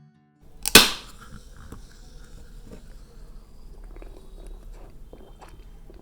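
A single loud, sharp crack a little under a second in, followed by soft scattered clicks and rustles of food and its container being handled up close.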